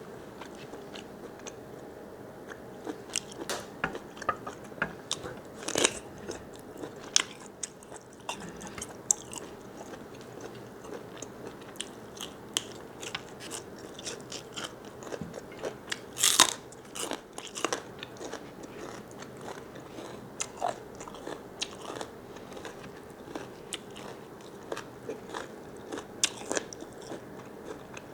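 A person biting and chewing crunchy food, with irregular crisp crunches and mouth sounds; the food is described as very crunchy. A few louder crunches stand out, the biggest about two thirds of the way through.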